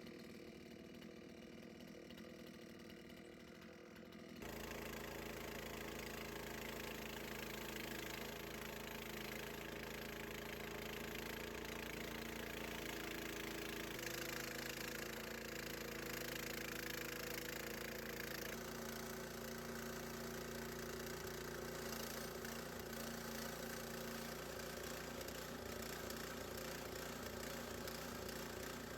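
Gas engine of a Harbor Freight bandsaw sawmill running steadily. About four seconds in it turns suddenly louder, and its tone shifts abruptly twice more later on.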